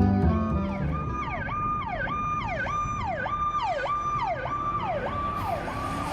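Emergency-vehicle siren sweeping down in pitch and back up about twice a second, starting about a second in after a bit of music ends, then fading near the end into vehicle noise.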